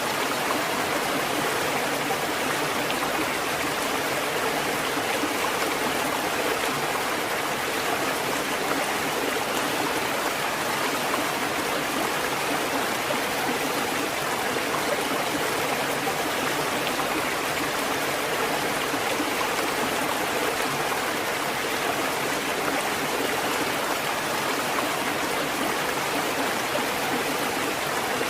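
Water fountain running, a steady, unbroken splashing and trickling of falling water.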